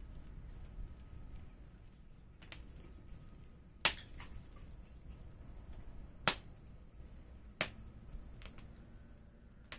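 Small wood fire crackling: a low steady rustle of flame with scattered sharp pops, the loudest about four and six seconds in.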